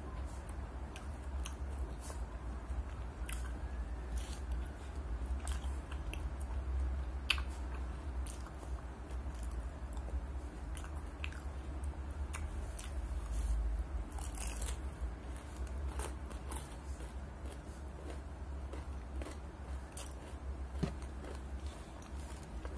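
Close-miked chewing and crunching of crispy breaded fried chicken, with sharp crunches scattered irregularly through and a steady low hum underneath.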